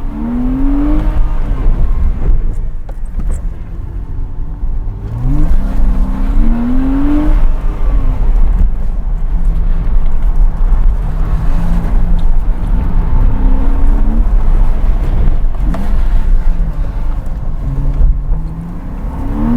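Porsche Cayman 987's 2.7-litre flat-six engine working hard. It climbs in pitch under acceleration three times, near the start, around the middle and near the end, and falls back to lower, steadier running in between.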